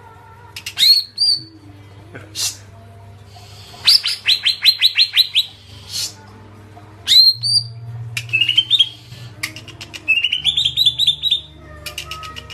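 A songbird calling loudly and repeatedly: sharp upward-sweeping whistles alternating with rapid trills of about eight notes, over a faint steady hum.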